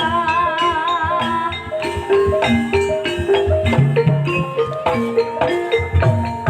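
Javanese gamelan music in campursari style: mallet-struck metallophone notes stepping through a tune over a steady drum beat, with a wavering held melody line in the first second or two.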